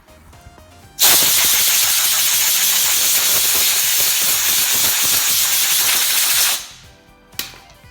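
Welder sizzling and crackling on an exhaust (muffler) repair: a loud, steady hiss that starts about a second in, runs for about five and a half seconds and cuts off abruptly. A single sharp click follows near the end.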